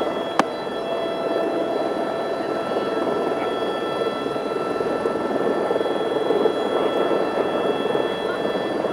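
Helicopter in flight: a steady drone with several high, steady whining tones above it. A single sharp click about half a second in.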